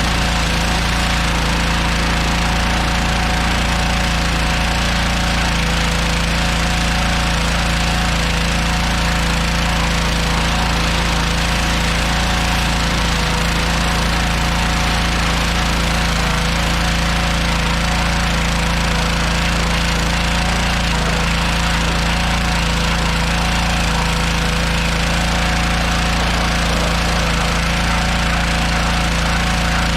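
Gas-powered pressure washer running steadily, its small engine humming under a constant spray hiss, while washing a truck's engine bay.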